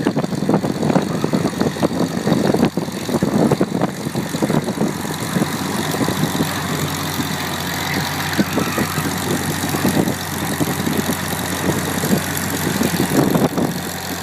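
International 460 tractor's engine running steadily, with a rough, choppy texture over the first several seconds that evens out in the second half.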